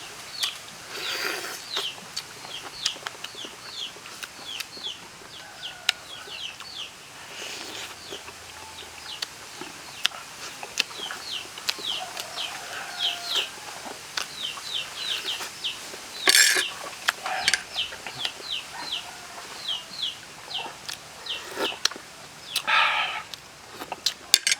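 Chickens calling: many short, high, falling peeps in quick succession, with a few louder calls about two-thirds of the way in and near the end.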